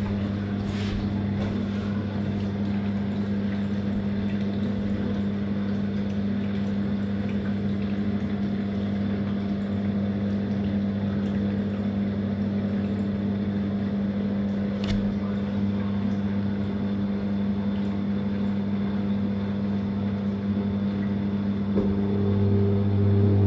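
Living & Co 5.5 kg top-load washing machine running with a steady, even motor hum. Near the end a rising whine joins in and the sound grows louder, as the machine speeds up.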